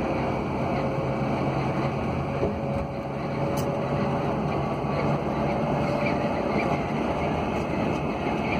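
Steady hum and road noise of a moving motor vehicle on the road, with a constant low engine tone.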